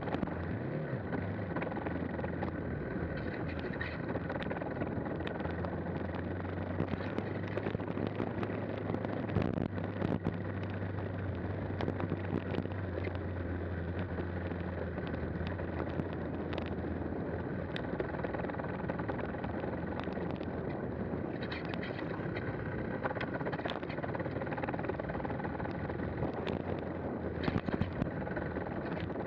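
KTM 390 Adventure's single-cylinder engine running at a steady, low speed, with scattered knocks and rattles as the bike rides over a rutted lane.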